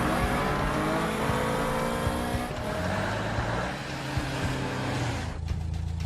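Cartoon sound effect of a vehicle engine revving, its pitch rising in stacked glides for the first couple of seconds, then settling into a low steady drone about five seconds in.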